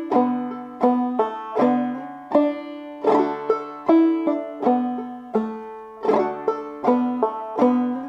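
Clawhammer banjo in D playing a tune phrase at a steady pulse: a walking rundown of plucked notes and brush strokes, each stroke ringing and fading before the next.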